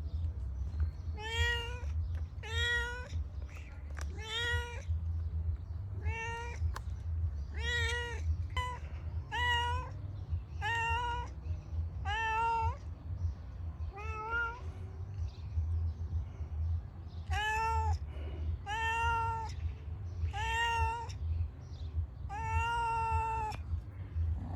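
Domestic cat meowing over and over, short meows about every second and a half, with a pause of a few seconds midway and a longer meow near the end. A steady low rumble runs underneath.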